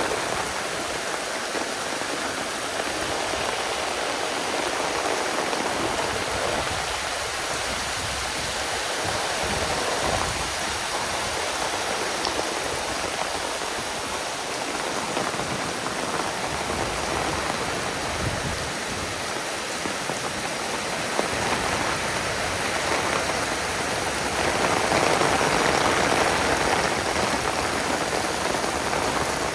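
Heavy rain pouring down in a steady hiss of falling water, swelling louder for a few seconds near the end.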